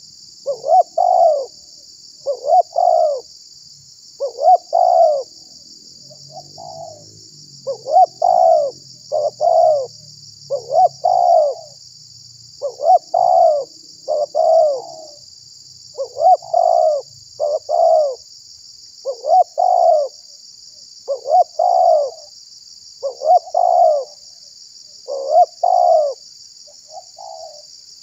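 Spotted dove (tekukur) cooing over and over, short phrases of two or three notes recurring about every two seconds, a lure recording for calling wild spotted doves. A steady high hiss runs underneath.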